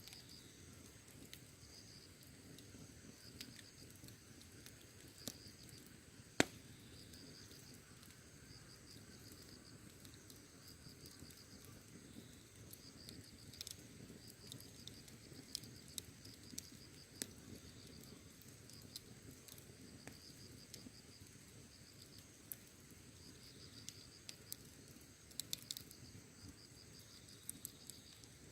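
Campfire crackling faintly, with scattered sharp pops and one louder pop about six seconds in, while crickets chirp in repeated pulsed trills.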